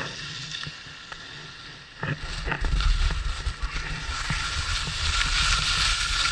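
Skis sliding over snow with wind buffeting the action camera's microphone, starting about two seconds in and building as speed picks up.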